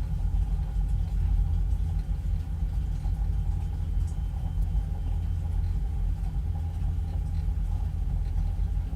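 Steady low rumble of a passenger ferry's engines and machinery, with a faint steady hum above it.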